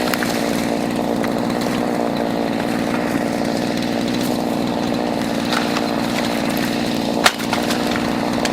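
Pull-start petrol chainsaw running steadily at an even pitch, with one sharp crack about seven seconds in.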